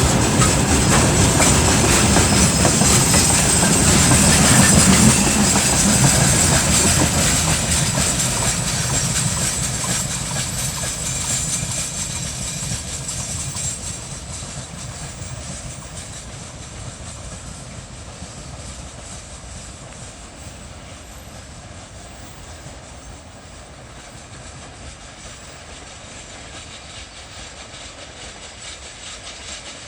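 Freight train rolling by with wheels clattering over rail joints. The sound is loudest in the first few seconds, then fades steadily as the train moves away.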